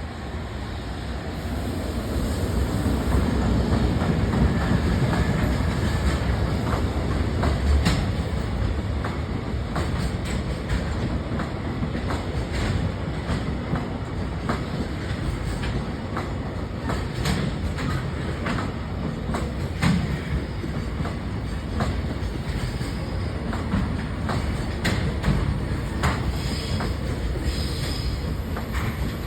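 Freight train of container flatcars hauled by an EF210 electric locomotive rolling past, building up over the first few seconds, then a steady rumble with rapid clickety-clack of wheels over rail joints. A faint high wheel squeal comes in near the end.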